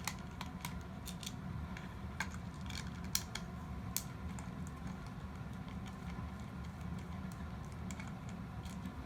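Scattered light clicks and taps of small plastic toy-robot parts being handled and set down, two of them a little louder in the middle, over a steady low hum.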